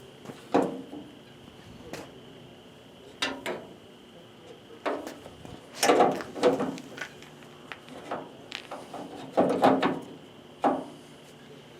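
Metal clinks and clatters of tailgate latch parts and hand tools being handled and fitted, in several separate bursts, the busiest about six and nine and a half seconds in.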